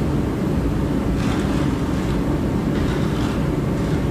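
A vehicle running: a steady low rumble, with a few faint hissing swells over it.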